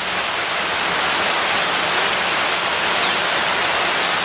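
Steady, heavy monsoon rain falling as an even hiss. About three seconds in, a single short falling whistle sounds over it.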